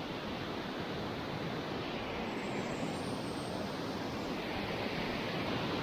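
Steady rush of water from a large waterfall, an even roar with no breaks.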